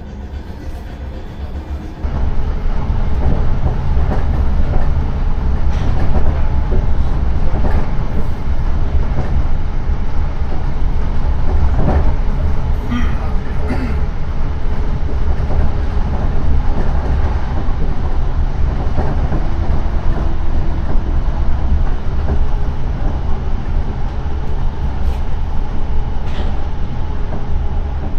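Class 455 electric multiple unit running, heard from inside the carriage: a loud, steady rumble of wheels on rail with a faint steady hum above it, jumping louder about two seconds in.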